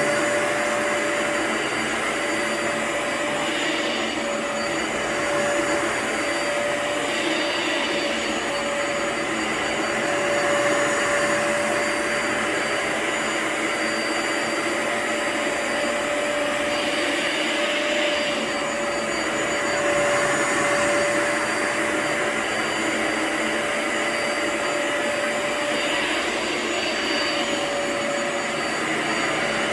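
Vacuum cleaner running steadily over a rug, a constant motor whine under the rush of suction, swelling every few seconds as it is worked back and forth.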